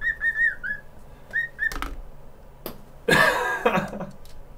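Cockatiel whistling its song in a quick run of short, repeated chirping notes, then a few clicks and a louder harsh, noisy burst about three seconds in.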